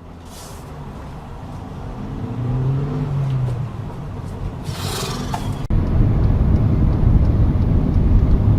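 Car engine and road noise: the engine note rises and falls about three seconds in, a short hiss comes just before the middle, and the sound then jumps abruptly to a louder low rumble.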